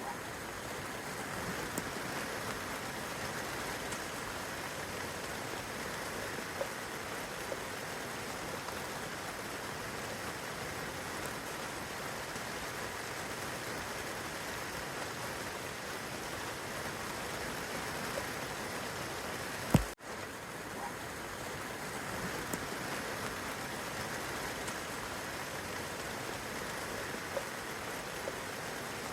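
Steady rain falling on a young fruit tree's leaves and the grass below, an even hiss with a few faint drop ticks. About two-thirds of the way through there is a single sharp click with a split-second gap in the sound.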